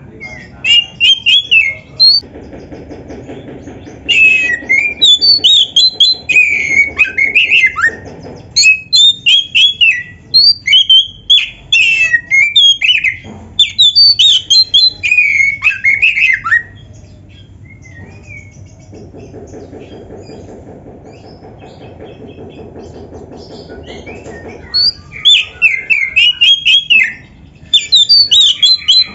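Oriental magpie-robin (kacer) singing in full, loud song: fast, varied phrases of whistles, chirps and harsh notes, including imitations of other birds' songs. The song breaks off for several seconds in the middle and resumes near the end, with a quieter, lower buzzing sound underneath during parts of it.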